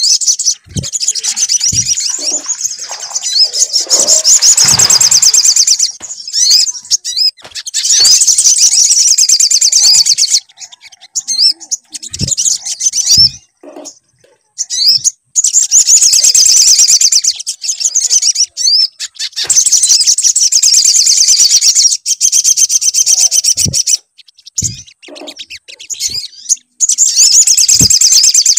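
Sogon songbird giving a lure song: rapid, high-pitched chirping and trilling in bouts several seconds long, broken by short pauses. A few brief low thumps are heard between the bouts.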